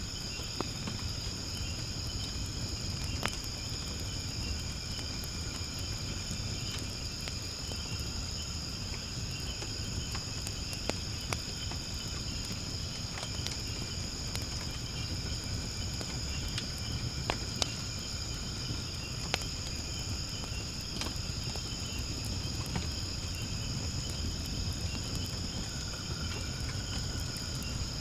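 Wood fire burning in a fire pit, with scattered sharp crackles and pops over a low rumble. A steady, high-pitched insect chorus runs underneath.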